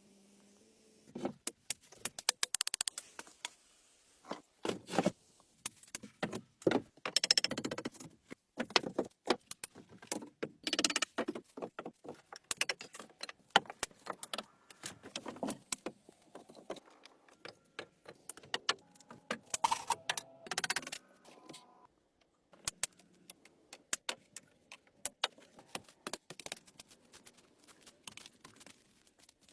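Irregular clicks, knocks and short scraping sounds of handwork, coming in uneven clusters with brief pauses.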